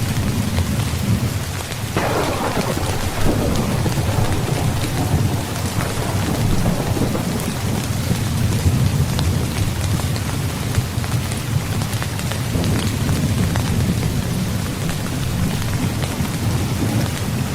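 Heavy rain falling steadily under a continuous low thunder rumble. A sharper thunderclap breaks in about two seconds in and fades over a second or two, and another roll of thunder swells about two-thirds of the way through.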